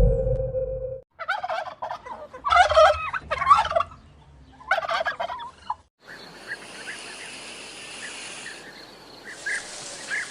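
Three short bursts of rapid, warbling bird calls in quick succession, then a steady hiss with a few faint chirps.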